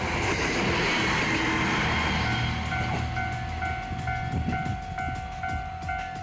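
A railcar passing close by on the Nihonkai Hisui Line, its passing noise loudest in the first two seconds and then fading as it pulls away. Under it a Japanese level-crossing warning alarm keeps ringing, an electronic two-tone ding repeating about two to three times a second.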